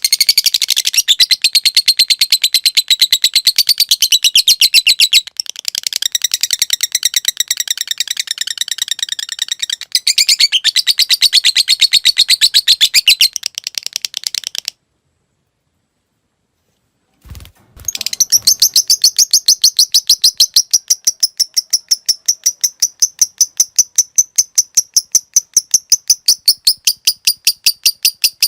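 Lovebird singing a long, rapid chattering trill ('ngekek') of fast, evenly repeated high notes. The song breaks off for about three seconds about halfway through, and a short low thump comes just before it starts again.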